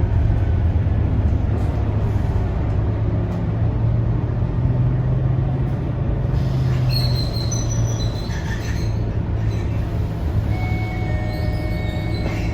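Scania K230UB bus's five-cylinder diesel engine running steadily as the bus slows for a stop, easing off slightly about two-thirds of the way in. From about halfway there are short high squeals, typical of the brakes, followed near the end by steady high tones.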